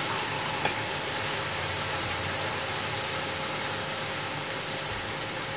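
Masala paste of chilli and turmeric powder frying in oil in a large aluminium pot, giving a steady hiss with a low hum beneath it. A wooden spatula gives one light tap against the pot less than a second in.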